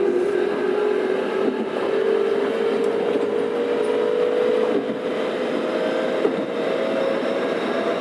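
Keikyu 600 series electric train heard from inside the car: the whine of its Toyo-built VVVF traction motors climbs slowly and steadily in pitch as the train gathers speed, over wheel and rail rumble with a few light knocks.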